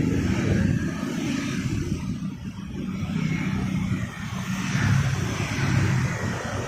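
Street traffic: the low running of passing vehicle engines and tyres, swelling and fading as vehicles go by, with a second swell near the end.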